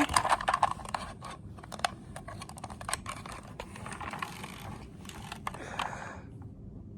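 Irregular light clicks and taps of small hard plastic toys being handled, densest in the first second and thinning out until they stop about six seconds in.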